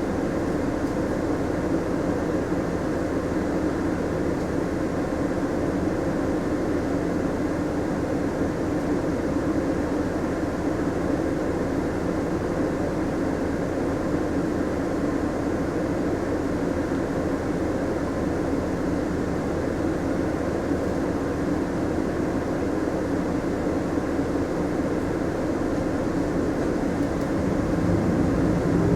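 Mitsubishi Fuso Aero Star city bus heard from inside the cabin while under way: a steady running sound of engine and road noise, growing a little louder near the end.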